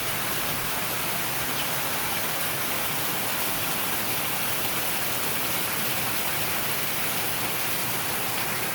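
Hurricane rain falling steadily: an even, unbroken hiss.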